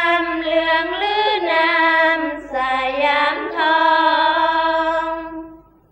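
Sarabhanya chanting in an Isan (northeastern Thai) melody: female voices singing together in unison on long, drawn-out notes that glide up and down between syllables, with no instruments, fading out near the end.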